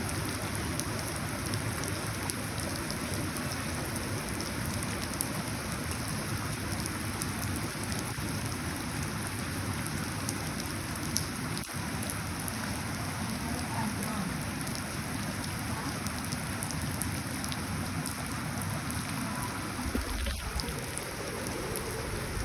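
Steady rain falling into puddles, a constant hiss with scattered sharp drop splashes. A brief low rumble comes in near the end.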